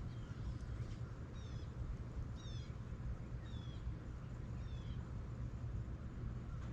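A bird at the feeder giving a series of short, high, downward-slurred calls, roughly one a second, over a steady low rumble.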